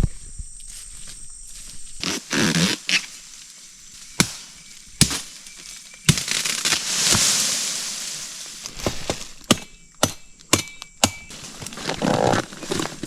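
Machete strikes chopping into a palm to get at the palm heart: irregular sharp whacks, with a swell of rustling and tearing of leaves and fibre lasting a few seconds in the middle.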